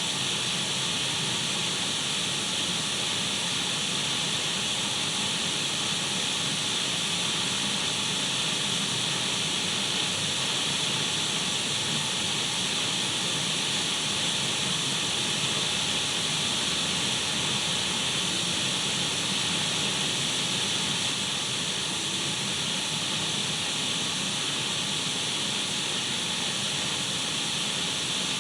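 Radio static: a steady, unbroken hiss, brightest in the upper range, with no voice or music coming through.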